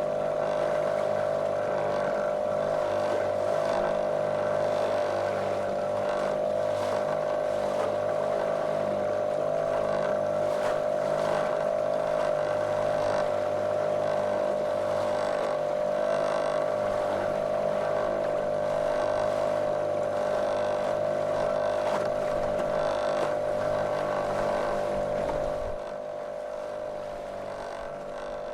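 A small motorboat's motor running at a steady, monotonous drone. It becomes noticeably quieter near the end.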